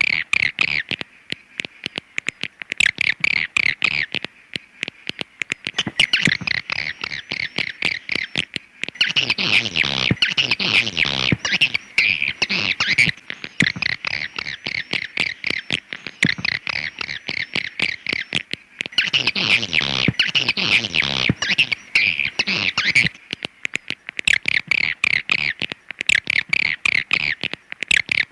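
Swiftlet (walet) calls from a lure recording: dense, rapid twittering chirps in phrases of a few seconds, broken by short pauses.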